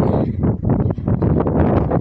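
Wind buffeting the microphone, loud and gusty, with short lulls about half a second and a second in.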